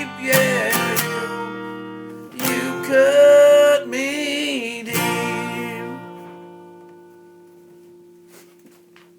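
A voice sings the song's last held notes over a strummed guitar. About six seconds in the singing stops, and the final guitar chord rings on and fades out.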